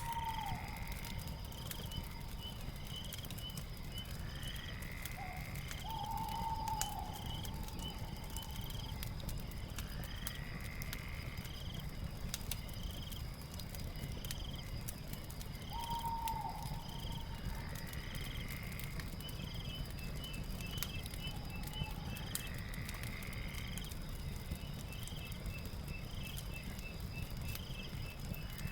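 Night ambience with a crackling fire. A steady high insect drone and rapid short chirps sound throughout, with a slower repeated call every few seconds, over a low rumble and scattered crackles.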